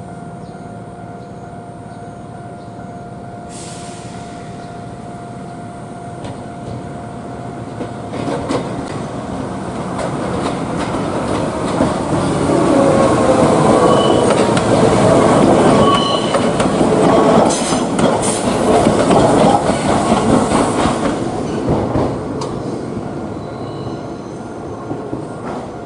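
An electric train passing: the noise of its wheels on the rails builds over several seconds, is loudest for about eight seconds with some high ringing and gliding tones, then fades away.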